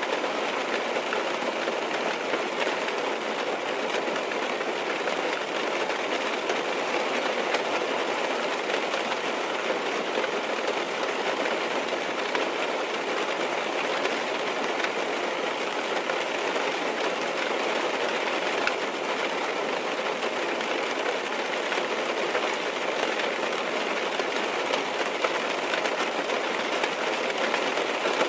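Rain falling on a car's roof and windows, heard from inside the cabin: a steady, dense patter of drops.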